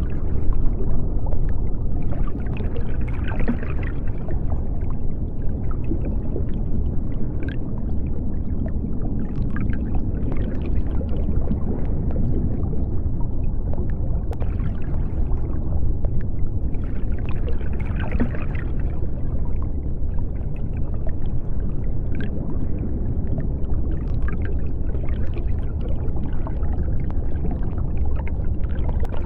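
Underwater ambience: a steady deep rumble with bubbling and gurgling that swells up and fades every several seconds, and a few faint clicks.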